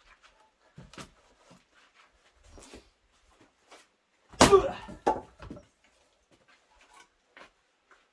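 An axe striking a large firewood round: one heavy blow about halfway through with a second sharp knock just after, and a few light knocks of wood being handled before it.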